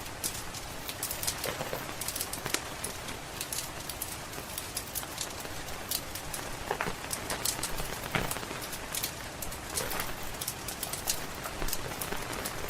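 Wood fire crackling in a fireplace, with scattered sharp pops and snaps, over a steady hiss of rain.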